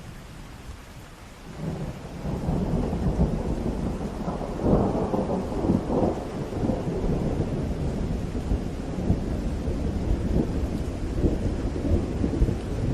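Steady rain with a long rolling rumble of thunder that sets in about a second and a half in, swells loudest about five seconds in and keeps rumbling on.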